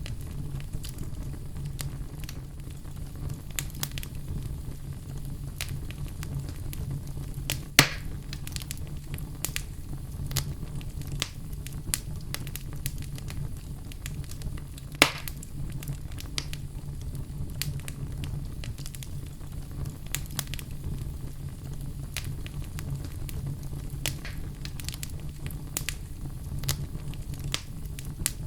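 Wood fire crackling in a fireplace: a steady low rumble under scattered sharp crackles, with two louder pops at about eight and fifteen seconds in.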